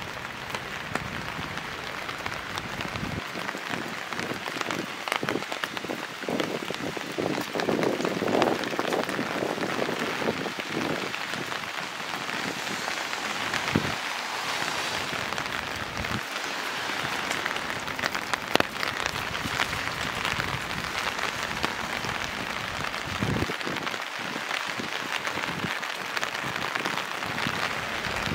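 Steady rain falling, with many sharp individual drop impacts heard close by over an even hiss.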